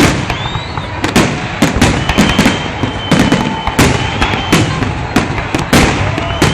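Fireworks salute: a steady volley of loud shell bursts, one or two bangs a second, with thin whistling tones sounding between them.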